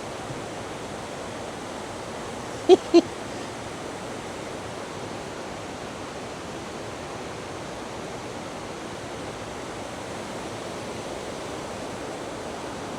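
Steady rushing of the River Gamlan's flowing water. About three seconds in, two very brief, loud pitched squeaks in quick succession cut through it.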